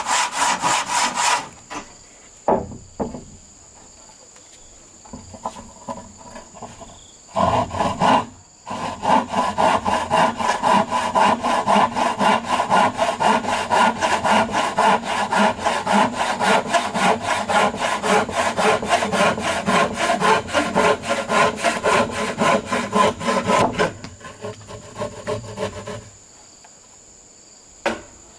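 Hand saw cutting wood in quick, even back-and-forth strokes; it stops about a second and a half in, a few knocks follow, then the sawing resumes for a long stretch and stops near the end.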